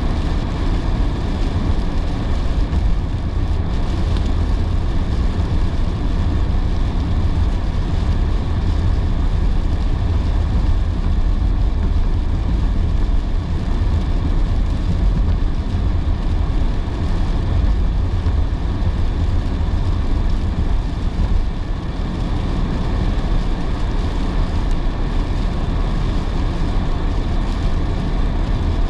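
Car driving on a rain-soaked road: a steady low rumble of tyres and road noise with a hiss of water over it.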